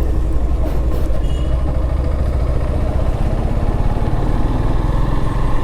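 Motorcycle engine running steadily while riding, under a constant low rumble.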